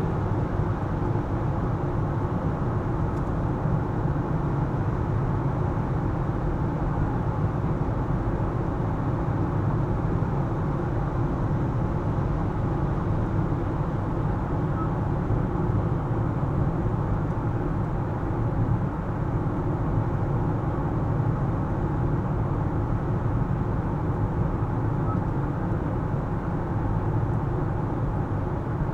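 Car driving at steady speed: a constant rumble of tyre and road noise with a low engine hum, unchanging throughout.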